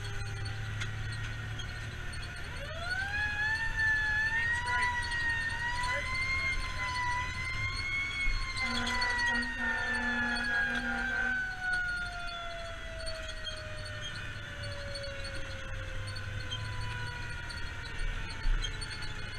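Fire engine siren winding up, wavering while held, then slowly winding down, over a steady diesel engine rumble. A few short horn blasts sound during the hold.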